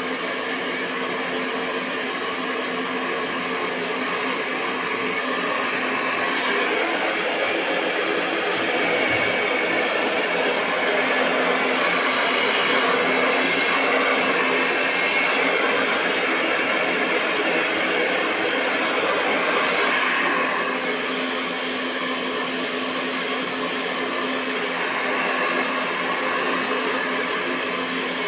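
Hair dryer blowing continuously: a steady rush of air over a constant motor hum, swelling and easing slightly in loudness now and then.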